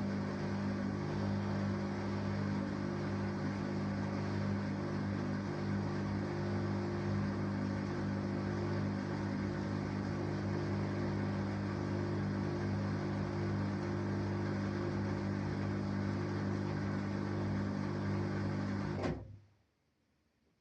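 Samsung Eco Bubble washing machine running with a steady hum of several constant tones, which stops abruptly about nineteen seconds in.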